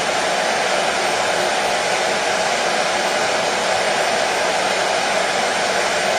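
Hair dryer running steadily: a constant, even rush of air and motor noise with no change in pitch or level.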